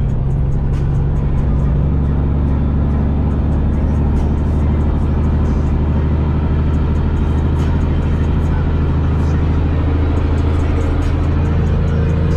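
Peterbilt semi-truck's diesel engine heard from inside the cab, droning at a steady speed while cruising empty, with road and tyre noise.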